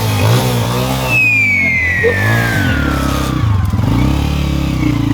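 Honda 125 motorcycle engine being revved, its pitch rising and falling several times. A long falling whistle-like tone slides down over it during the first half.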